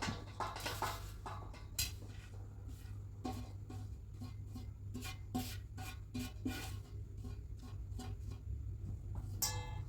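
Kitchen work: a run of light, irregular taps and clicks of utensils and dishes, about two a second, over a steady low hum.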